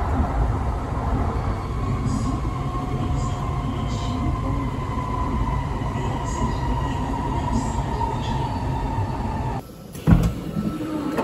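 Interior running sound of a West Kyushu Shinkansen Kamome train heard from the door vestibule: a steady low rumble with a faint whine that sinks slightly in pitch as the train slows into the station. Near the end the sound drops away suddenly and there is a single knock.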